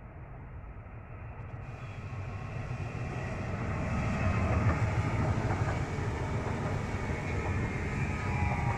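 Electric multiple-unit passenger train approaching and passing close by, its rumble growing louder until about halfway through and then holding steady, with a faint whine near the end.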